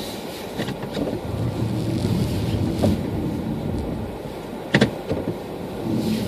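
Car driving through a blizzard on a snowy road: steady rumble of tyres and engine, with a few light clicks and one sharp knock about three-quarters of the way through.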